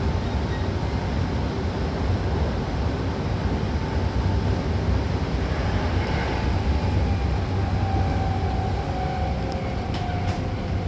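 Hankyu Kyoto Line train running, heard from inside the car by the doors: a steady, deep rumble of wheels on rail with a faint motor whine that sinks slightly in pitch in the second half.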